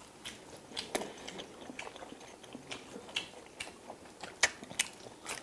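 Two people chewing dumplings and spicy mixed noodles close to the microphone: mouth sounds and lip smacks, with irregular small clicks.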